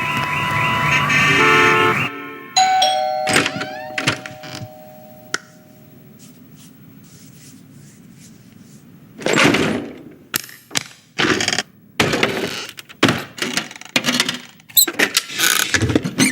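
Doorbell-style chime ringing, its last two tones ringing on for a few seconds before fading. After a quiet stretch comes a run of sharp clicks, knocks and scrapes.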